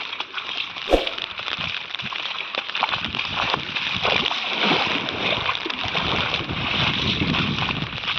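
Floodwater sloshing and gurgling in a steady rough wash, with one sharp knock about a second in.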